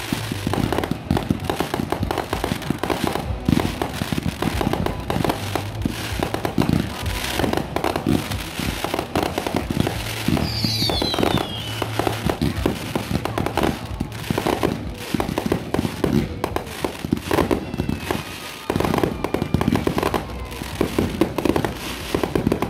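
Fireworks going off in a dense, continuous string of bangs and crackles, with a falling whistle about ten seconds in.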